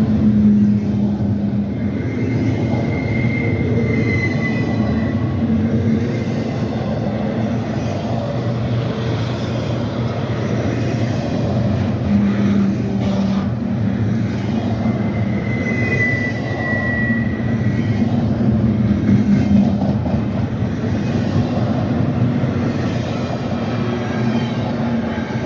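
Freight train cars rolling steadily past, a continuous rumble of wheels on rail, with a faint high wheel squeal twice, early and again about two-thirds through.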